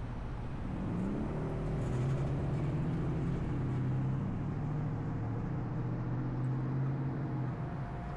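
Car engine rising in pitch as it accelerates about a second in, then holding a steady drone over road and tyre noise; the engine note drops away near the end.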